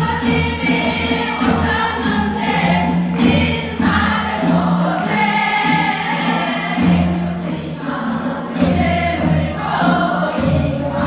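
A group of voices singing a Korean folk song (minyo) in chorus over instrumental accompaniment, with occasional drum strokes.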